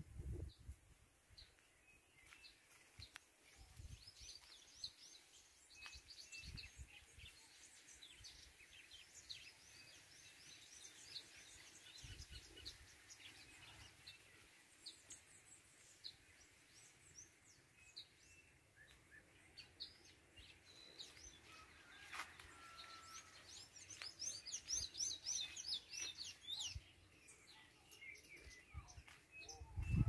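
Small birds chirping in short, high notes, faint and scattered, with a busier run of quick chirps a few seconds before the end. A few low thumps come and go.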